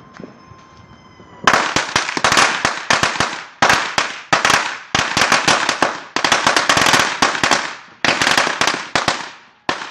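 A string of firecrackers going off in a fast, dense crackle of sharp bangs that starts about a second and a half in, keeps going for about eight seconds, and dies away near the end.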